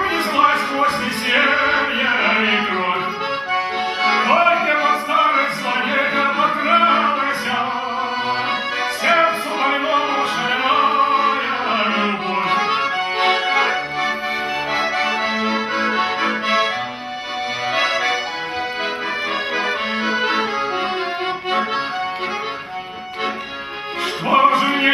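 Accordion playing an instrumental passage of a song, a melody moving over held chords.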